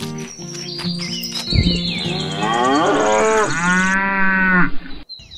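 Cows mooing: a long moo that slides down in pitch about three seconds in, then a steadier moo that stops abruptly.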